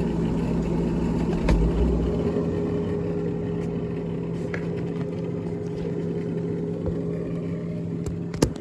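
Steady hum of a running motor, with a held low tone and a dense drone. There is a sharp click about a second and a half in and a louder knock near the end.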